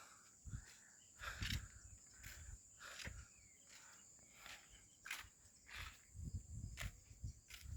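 Footsteps of someone walking, a series of irregular soft crunches, over a faint steady high-pitched hum.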